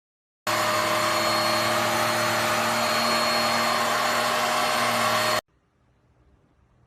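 JIMMY BX7 Pro dust mite vacuum cleaner running steadily with a high whine, starting abruptly about half a second in and cutting off abruptly about five seconds later.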